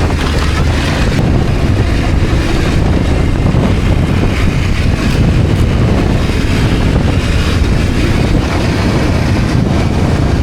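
Twin-cylinder adventure motorcycle engine running steadily while riding, with heavy wind noise on the microphone.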